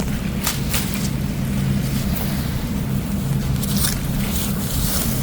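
Scraping and rustling of soil and leaves as wild greens are dug up by the root, in a few short strokes over a steady low rumble.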